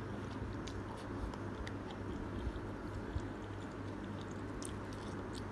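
Close-up chewing of udon noodles, with scattered small wet mouth clicks over a steady low hum.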